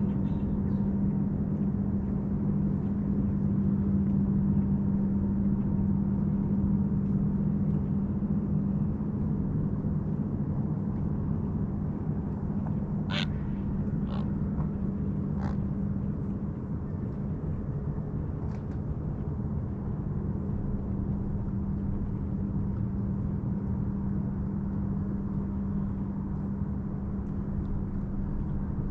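Steady low hum of a motorboat engine out on the water, slowly easing off, with three short bird calls about halfway through.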